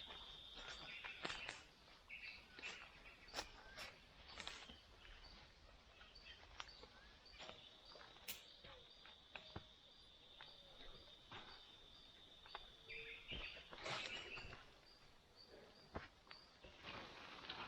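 Quiet forest ambience: a steady high-pitched drone that breaks off about a second in and returns about halfway through, a soft chirp repeating about twice a second, and scattered small knocks and clicks.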